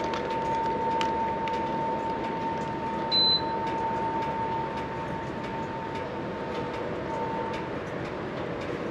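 One short, high beep from a gas pump's card reader or keypad about three seconds in, over a steady background hum with a faint steady tone that fades out near the end.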